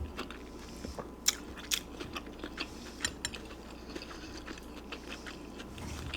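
Close-miked chewing of pozole: wet mouth clicks and a few sharp crunches scattered through, the loudest about a second and a quarter and a second and three quarters in.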